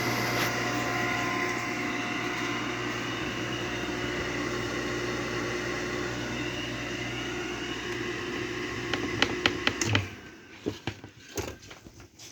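Kawamoto N3-156SHN well pump's electric motor running with a steady, tonal hum, the motor noise being a fault (異音, 'abnormal noise'). A few sharp clicks come just before the motor cuts out about ten seconds in, followed by scattered light knocks.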